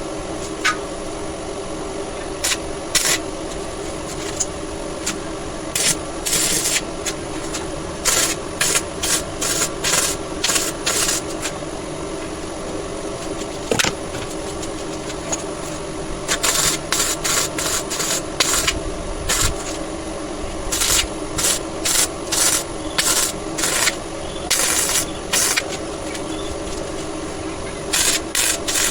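Repeated short scraping strokes of a hand tool, a few at first and then in quick runs of several strokes a second, over a steady hum.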